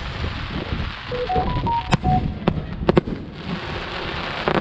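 Aerial fireworks bursting: several sharp bangs, the loudest about two and three seconds in, over a steady crackle.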